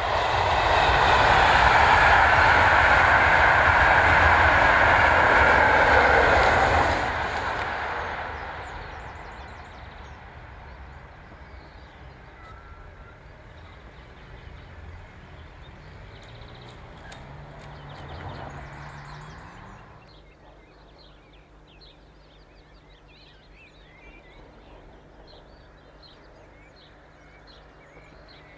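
A train passing at speed on the main line: a loud, even rush of wheels and air for about seven seconds that then fades away over the next two. Later a road vehicle's engine briefly rises in pitch and cuts off, and birds chirp near the end.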